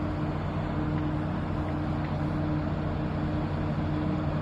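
A towboat's diesel engines running steadily in the lock, a constant low hum.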